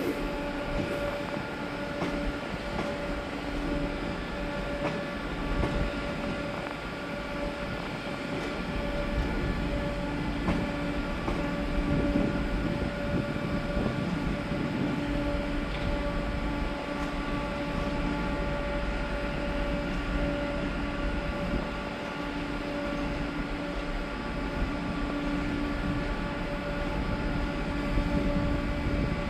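A train running with a steady mechanical hum: several held tones over a low rumble, with no clear wheel beat.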